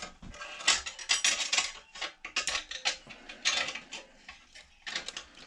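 Steel transmission parts clinking and scraping against each other as a C6 clutch pack is assembled by hand: a run of irregular metallic clicks and clinks.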